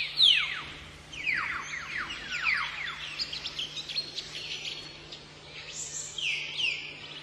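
Hill myna calling: a quick run of whistles that each slide steeply down in pitch, then shorter falling notes repeated near the end. A steady low hum runs underneath.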